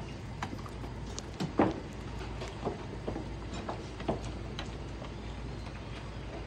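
Scattered clinks and knocks of kitchenware at a noodle stall, the loudest about one and a half seconds in, over a steady low hum.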